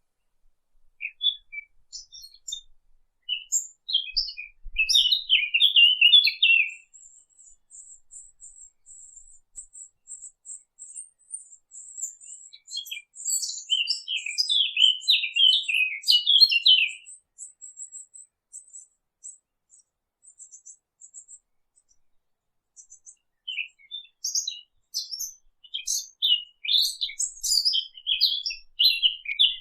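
Sylvia warbler singing quick, scratchy warbled phrases. There are three of them: one from about a second in to about 7 s, one around 13 to 17 s, and one from about 24 s on. A thin, very high trill runs on between the first two phrases.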